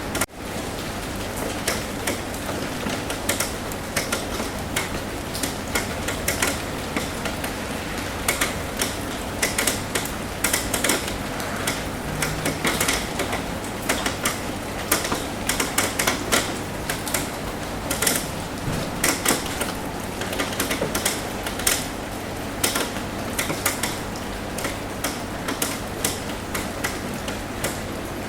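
Rain falling on a roof: a steady hiss with many irregular, sharp taps of individual drops. There is a brief drop-out right at the start.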